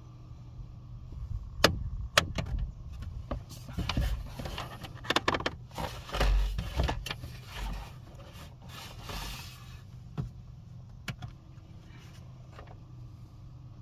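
Hands working plastic car-interior parts behind the glove box: scattered sharp plastic clicks and a stretch of rustling and scraping, over a steady low hum.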